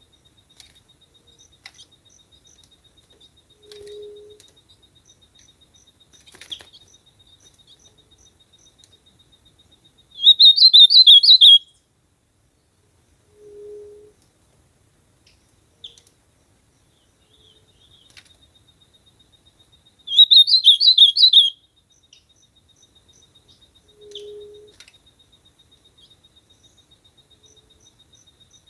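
Ultramarine grosbeak (azulão) singing: two short, loud song phrases of rapid warbled notes, each about a second and a half long, roughly ten seconds apart.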